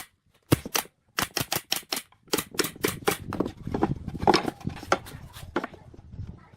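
Quick runs of sharp knocks, about four to five a second with short gaps between runs, typical of hand-tool striking in woodworking. A rougher clatter runs under the knocks through the middle of the stretch.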